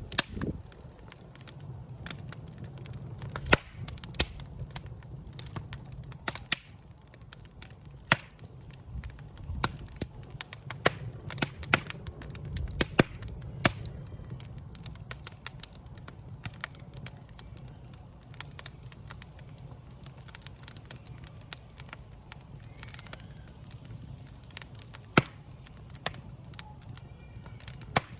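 Wood fire in a fireplace crackling: irregular sharp pops and snaps, a few of them loud, over the steady low rumble of the flames.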